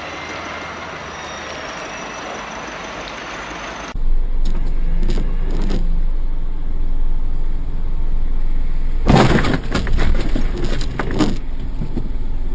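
Steady road and traffic noise from a dashcam. About four seconds in it cuts to a louder low vehicle rumble, with a cluster of loud bangs and knocks about nine seconds in.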